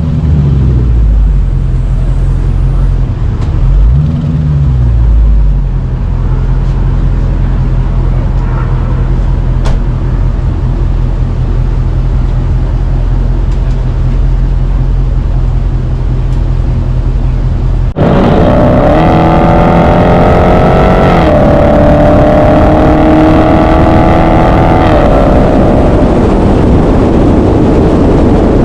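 Car engine idling, blipped up and back down twice near the start, then settling into a steady idle. After an abrupt change about two-thirds of the way in, a louder engine takes over at high revs, its pitch rising and then holding.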